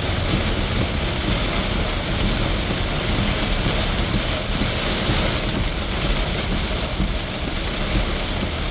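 Heavy rain drumming on a car's roof and windshield, heard from inside the cabin, over steady tyre and engine noise on a wet highway. The noise is even and unbroken, and the driver calls it so loud in the car.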